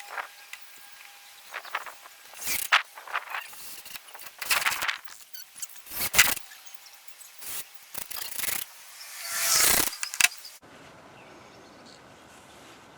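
Construction work on a wooden 2x2 frame: about half a dozen short knocks and scrapes, one or two seconds apart, the last of them drawn out a little longer.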